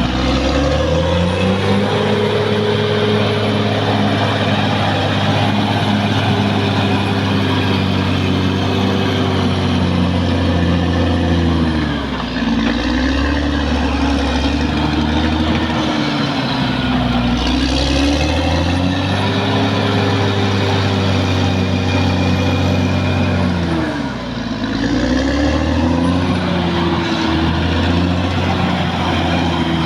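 Caterpillar D6R XL bulldozer's diesel engine running hard, its pitch sagging under load twice, about 12 and 24 seconds in, and climbing back each time, with a faint high whine above it.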